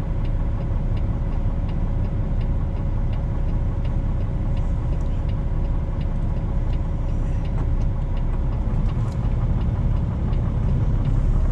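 A 2018 Freightliner semi's diesel engine running steadily, heard inside the cab, with a regular ticking about twice a second like a turn signal.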